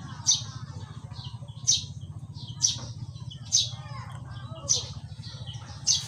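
A small bird the uploader calls a pipit, calling from a tree. It gives a sharp, high note about once a second, six times, each with a softer note just before it. A steady low hum runs underneath.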